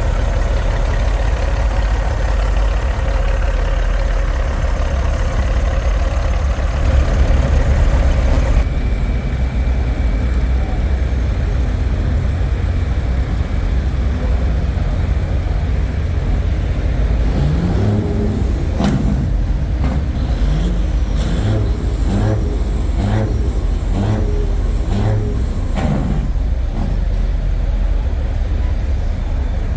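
Semi truck's diesel engine idling, a steady low rumble, with a broad hiss that cuts off abruptly about nine seconds in. Short rising-and-falling pitched sounds come and go in the second half.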